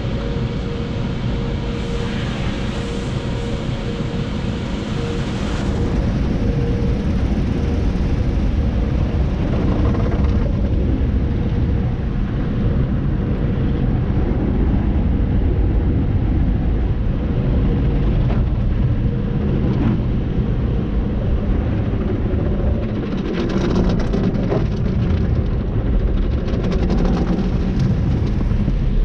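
Automatic car wash tunnel machinery running: a loud, steady, dense rumble of spraying water and wash equipment, changing in character a few times as the car moves along the conveyor.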